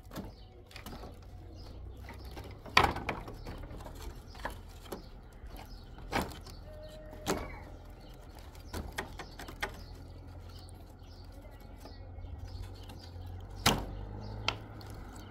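Irregular knocks and clattering, as of objects being handled and set down. The sharpest knocks come about three seconds in and near the end, over a low steady hum.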